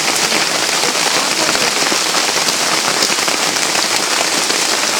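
Steady rain falling: a loud, even hiss made of many small drop patters.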